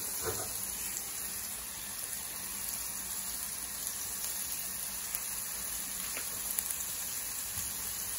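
Sea scallops frying in butter, bacon fat and garlic in a hot cast iron skillet: a steady sizzling hiss.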